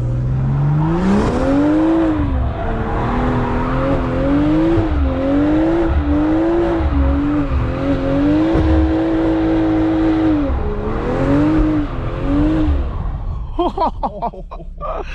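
Straight-piped BMW M4 Competition twin-turbo straight-six accelerating hard, its exhaust note climbing steeply at first. The revs then rise and dip again and again, hold high for a couple of seconds, and fall away near the end.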